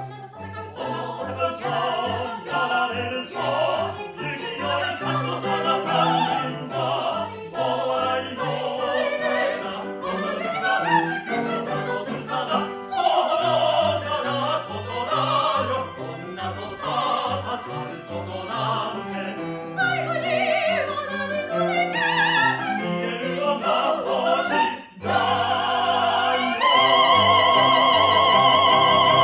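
Operetta music: a singer with strong vibrato over an orchestra with a stepping bass line. Near the end, after a brief pause, the music swells into one long, loud held high note.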